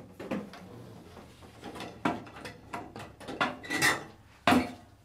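Fluorescent tube being twisted and worked out of its tombstone sockets in a ceiling light fixture: a run of irregular scraping clicks and rattles, with a louder knock about four and a half seconds in.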